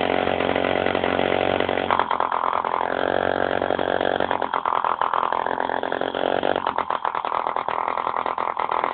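B51 model diesel engine running steadily, its note shifting about two seconds in and again near the end.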